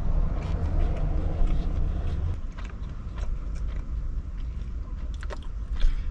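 Biting and chewing a bean and cheese burrito, with small clicks of the mouth and wrapper, over a low rumble that eases off about two and a half seconds in.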